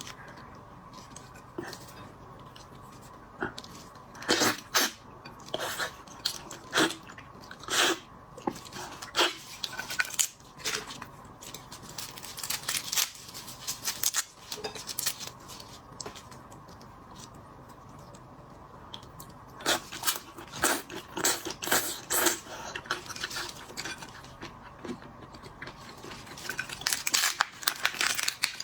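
Crackling and crunching of cooked shellfish shells being broken, peeled and chewed, close to the microphone. The sharp crackles come in several clusters, with quieter pauses between.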